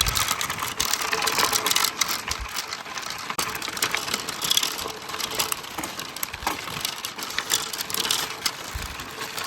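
Mountain bike rattling and clattering over a rough dirt trail, a dense run of rapid clicks and rattles over a steady rushing noise.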